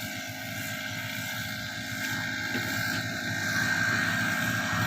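An engine running steadily and gradually getting louder.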